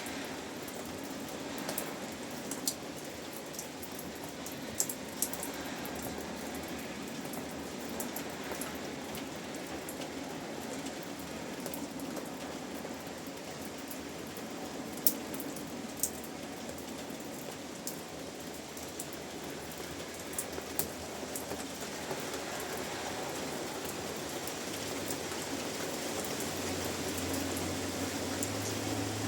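Steady rain: an even hiss with scattered sharp taps of single drops striking a surface. It grows slightly louder in the last third.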